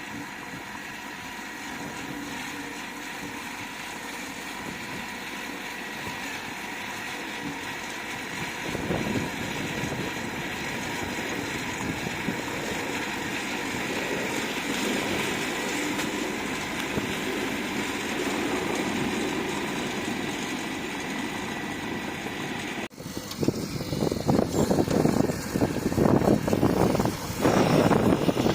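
Heavy earthmoving machinery's diesel engine running steadily with a faint steady whine. About 23 s in, the sound breaks off and turns to a louder, rougher engine note that rises and falls unevenly.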